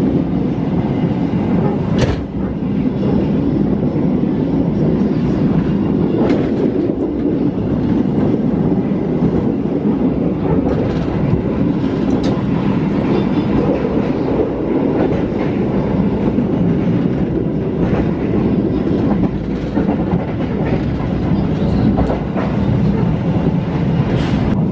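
Passenger train running at speed, heard from inside the coach: a steady rumble of wheels on the rails, with a few sharp clacks several seconds apart.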